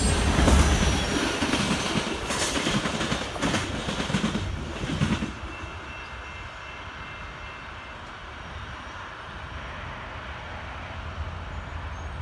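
Freight cars rolling past at a grade crossing, wheels clacking and rumbling on the rails. About five seconds in the sound cuts off suddenly to a much quieter, steady low rumble.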